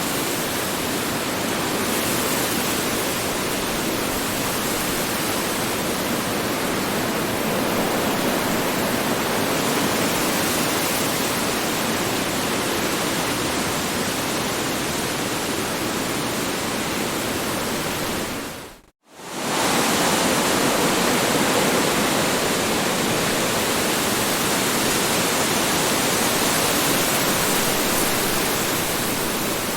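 Strong wind blowing steadily, a dense rushing noise with no gusts standing out. About two-thirds of the way in it drops away to near silence for under a second, then swells straight back in.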